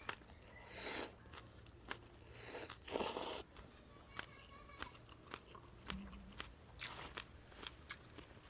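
Close-miked eating of bún bò Huế beef noodle soup: loud slurps about a second in, around three seconds in and near the end, with chewing and small sharp clicks between them.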